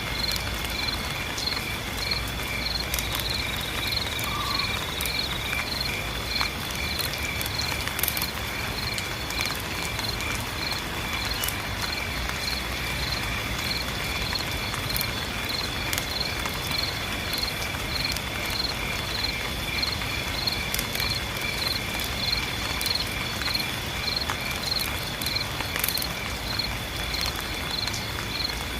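Insects chirping over a steady patter of rain: one high, unbroken trill with a pulsing chirp about twice a second on top of it.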